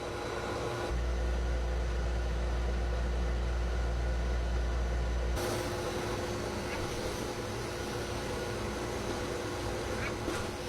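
Pet blow dryer running steadily with a motor hum and rushing air. A deep rumble drops out about five seconds in, and the hiss of the air brightens.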